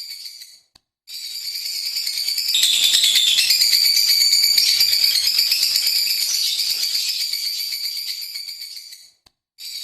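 Lovebird singing a long, rapid, high-pitched chattering trill. It fades out briefly about half a second in and again near the end, then starts back up, loudest in the middle.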